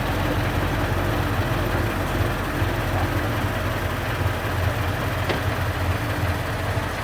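Heavy military truck diesel engine running steadily at low revs, a deep even hum.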